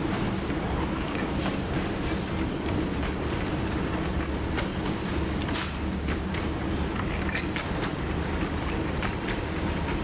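TU7 narrow-gauge diesel locomotive under way: its V12 diesel engine drones steadily, with irregular clicks and knocks from the wheels running over the rail joints.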